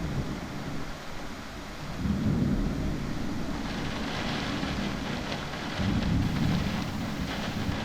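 Thunder rumbling in two low rolls, one about two seconds in and another near six seconds, over the hiss of heavy rain, which grows louder about halfway through.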